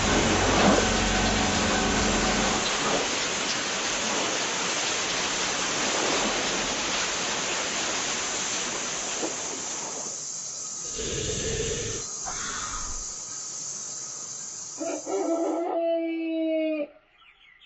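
Steady hiss of rain, with a low thunder rumble under it for the first two or three seconds. The rain cuts off near the end, where short pitched cries come in.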